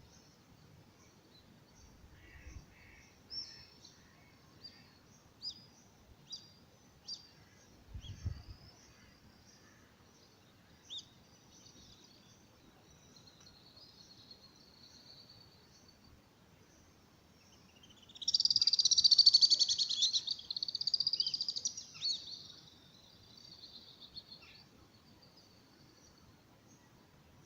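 Birds calling: scattered short, high chirps for the first ten seconds or so, then a loud, busy burst of song lasting about six seconds from around eighteen seconds in. Two dull low thumps come early on the track.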